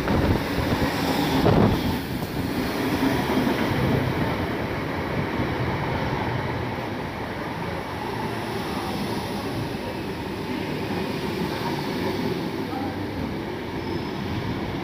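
Class 315 electric multiple unit pulling into the platform and rolling past, a steady rumble of wheels on the rails. It is loudest in the first two seconds, with a brief sharp noise about a second and a half in.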